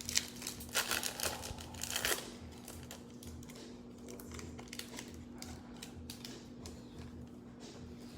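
Plastic wrapper of a Mosaic football card pack being torn open and crinkled in the first two seconds, followed by faint light clicks of the cards being handled.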